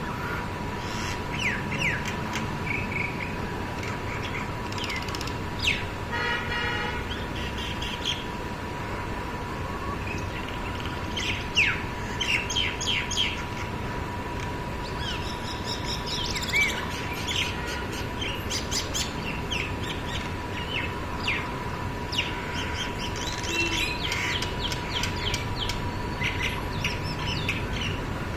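Several birds chirping and calling over one another in short, sharp, scattered notes, the busy back-and-forth of birds squabbling.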